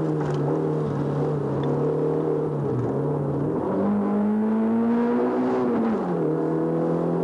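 Race car's engine heard from inside the cabin, running hard on a hillclimb run. Its pitch dips briefly about three seconds in, then jumps up and climbs steadily, and falls sharply about six seconds in.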